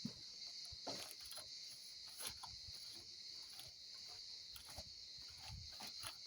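Scattered light knocks and rubbing from handling and wiping the plastic and foam body of an RC airplane as it is cleaned, over a faint steady high-pitched hiss.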